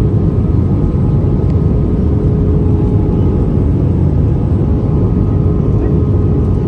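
Steady cabin noise inside an Airbus A320-214: a low rush of engine and airflow noise, with a steady tone from its CFM56 engines running through it.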